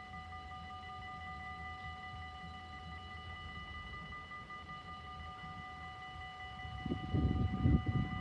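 Steady ringing of a railway level-crossing warning signal. About seven seconds in, the low rumble of the approaching Traxx electric locomotive and container train rises and grows louder than the ringing.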